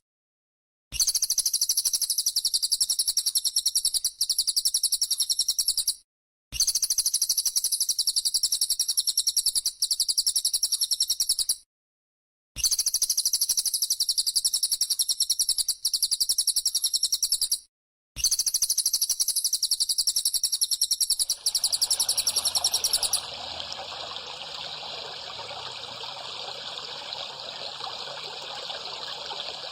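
A masteran (bird-training) recording: a high, very fast rattling trill played in phrases about five seconds long, separated by short silent breaks. About 21 seconds in, trickling water comes in, and the trill stops soon after.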